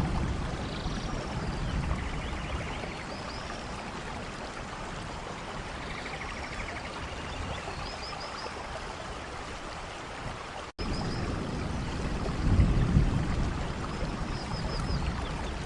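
Steady rainfall in a rainforest, with faint high bird chirps scattered through it. Low rumbles swell at the start and again about 13 s in, and the sound cuts out for a moment about 11 s in.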